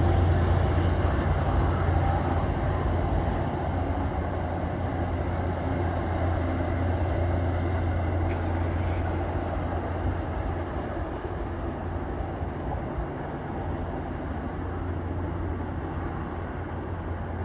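MBTA commuter train pulling away, its diesel locomotive making a steady low drone over rail noise that slowly fades as it recedes.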